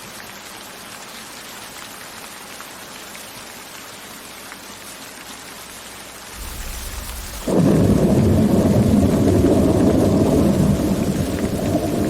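Steady rain with scattered drop ticks. About six seconds in a low thunder rumble starts, then rolls in suddenly much louder and deep, and keeps rumbling under the rain.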